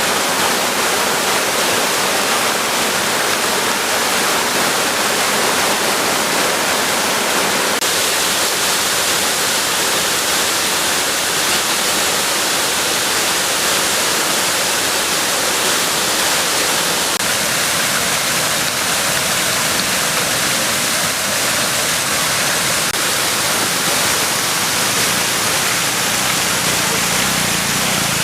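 Steady rushing of a flooded river.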